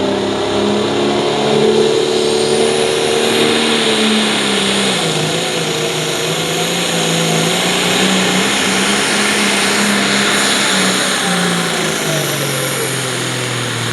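International 1066 light limited pro stock pulling tractor's turbocharged diesel running flat out under load, with a high turbo whine over the engine. The engine note sags in steps as the run goes on, lowest near the end.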